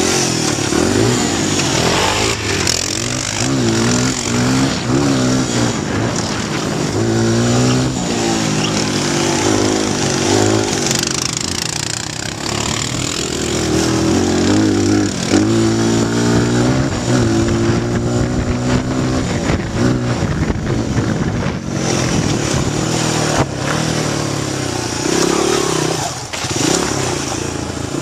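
Honda XR100 dirt bike's small single-cylinder four-stroke engine being ridden hard, its pitch repeatedly climbing and dropping back as it revs up and down.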